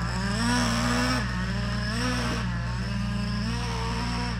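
Traxxas Revo 3.3's TRX 3.3 two-stroke nitro engine running steadily at low speed during its first-tank break-in, its pitch wavering slightly up and down.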